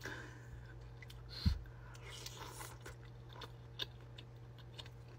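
Close-miked mouth sounds of biting into and chewing a soup dumpling taken off a spoon: scattered soft clicks, with a dull thump about a second and a half in.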